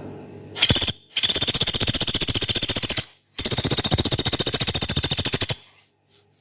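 Pelatuk beras, a small pygmy woodpecker, calling with harsh, rapid rattling trills: a short burst, then two long trills of about two seconds each, each made of many quick high notes.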